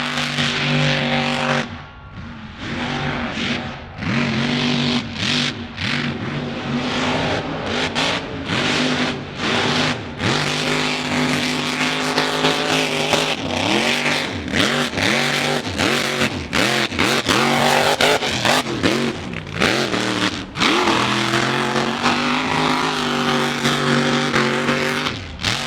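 Mud truck engines running loud and revving hard, the pitch climbing and dropping again and again in the middle, with a steady engine drone at the start and the end.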